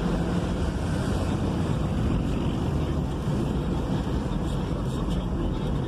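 Steady engine rumble and road noise from inside the cab of a diesel vehicle driving in city traffic, with some wind noise.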